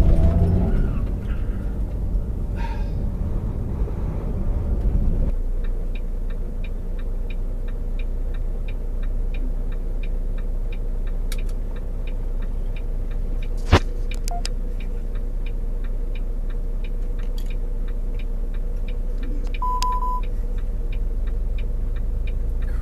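Semi truck engine running with a steady low rumble, heard from inside the cab. From about six seconds in, a light regular ticking comes about twice a second. There is one sharp click about halfway through and a short single-tone beep later on.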